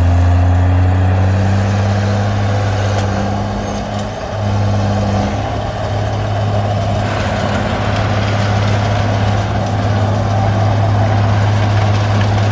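Komatsu D20P bulldozer's diesel engine running steadily under load, with a brief dip in engine note about four seconds in.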